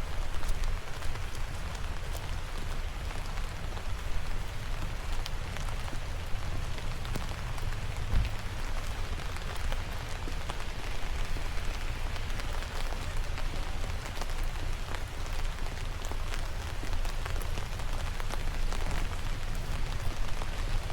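Steady rain, a dense patter of small drops ticking on surfaces, with a low rumble underneath that swells briefly about eight seconds in.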